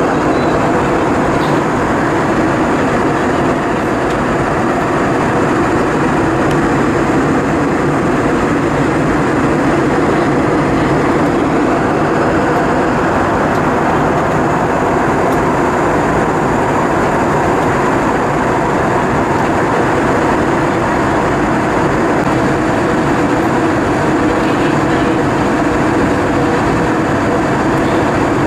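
Steady cabin noise inside an Airbus A320-232 airliner: the engines and the air rushing past the fuselage make an even, unbroken noise.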